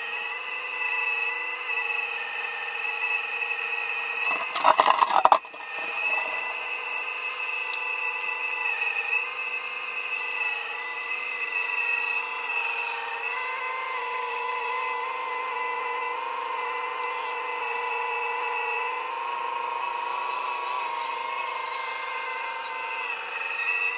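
A motor running with a steady whine at several pitches, with a brief loud noisy burst about five seconds in.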